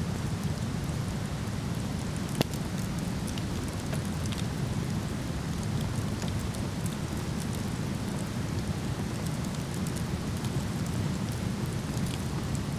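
Waterfall's steady rushing, with a wood campfire crackling over it in scattered small snaps and one sharper pop about two seconds in.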